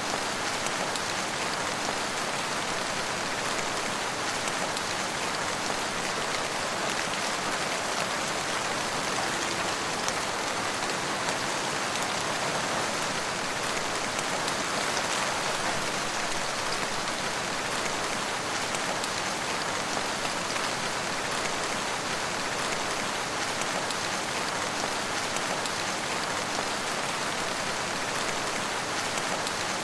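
Steady rainfall: an even, unbroken hiss of rain without change or pause.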